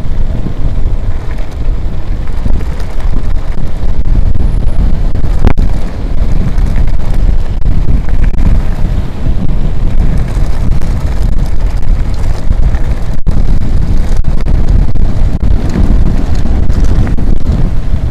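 Strong headwind buffeting the microphone while riding a mountain bike, a loud, steady low rumble. A single sharp click about five and a half seconds in.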